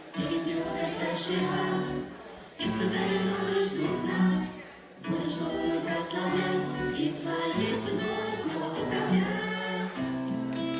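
A song: singing voices with musical accompaniment, in phrases broken by short pauses.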